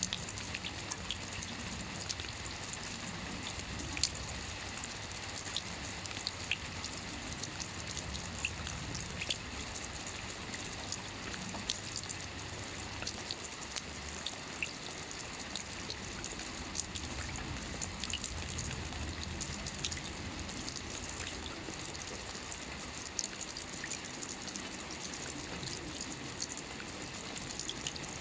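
Steady rainfall, a constant patter of raindrops with scattered individual drips ticking through it.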